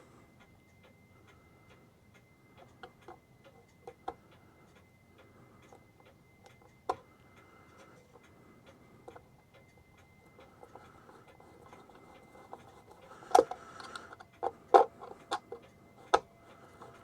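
New England Clock Company mechanical clock movement ticking steadily. Several louder knocks and clicks come near the end.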